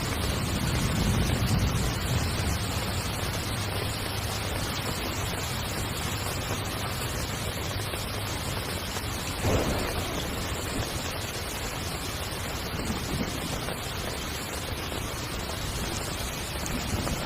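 Heavy rain hitting a tent, a steady wash of noise. A low rumble swells in the first couple of seconds, and a brief louder hit comes about nine and a half seconds in.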